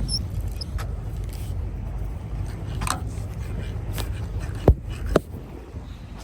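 Wind buffeting the microphone in a steady low rumble, broken by a few short sharp knocks, the loudest about three-quarters of the way through.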